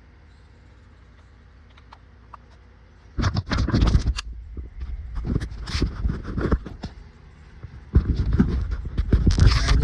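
Handling noise of hands working in close to the microphone: scraping, rubbing and sharp knocks with a heavy low rumble, in two bursts, one starting about three seconds in and another about eight seconds in.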